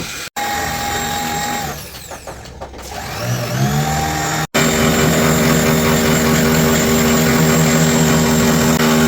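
Hand-held electric power tool motor running with a steady whine. It winds down about two seconds in, spins back up with a rising pitch around three to four seconds in, then runs steadily at full speed.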